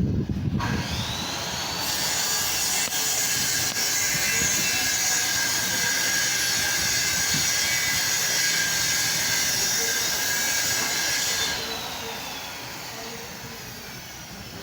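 A high-speed motor whine that spins up about half a second in, runs steadily at a high pitch, then winds down near the end before cutting off suddenly.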